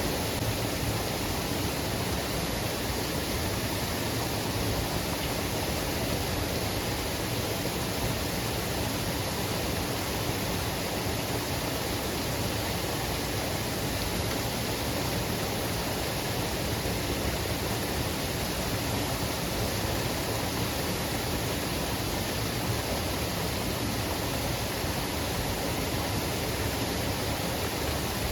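Waterfall pouring steadily: an even, continuous rush of falling water with no breaks.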